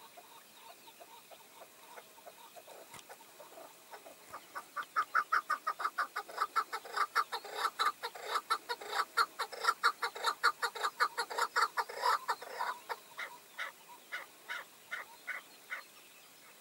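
Chukar partridge calling: a long, rapid series of clucking notes, about five a second. The series builds up about four seconds in, is loudest in the middle, and thins out into spaced notes near the end.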